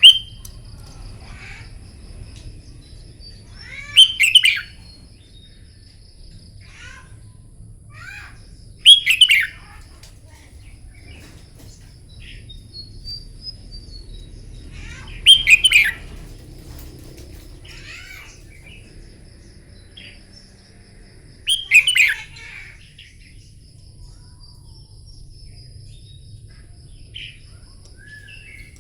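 Red-whiskered bulbul singing: short, loud phrases of quick whistled notes about every five to six seconds, with softer chirps between them.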